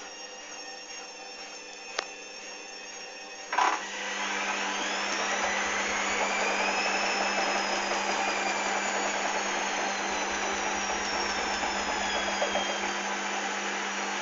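Hoover Dynamic washing machine motor and drum in the final spin. After a click and a knock in the first few seconds, the drum picks up speed with a rising whine, which then slowly falls again, with the load very unbalanced.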